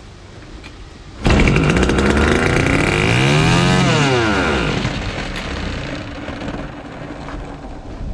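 Flooded Fubag FPT 52 petrol trimmer's two-stroke engine, run with its carburettor removed, catches about a second in, revs up and then runs back down as it burns off the excess fuel.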